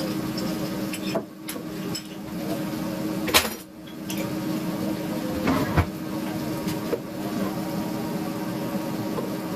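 A few knocks and clicks from kitchen items being handled, the sharpest about three and a half seconds in, over a steady low hum.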